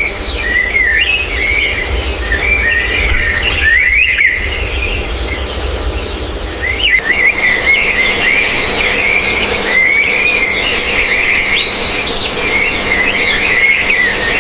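Birds chirping and chattering non-stop, many high calls overlapping.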